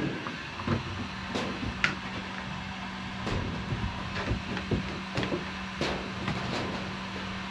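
Scattered light knocks and clicks over a steady low hum and hiss; the hum starts about a second in.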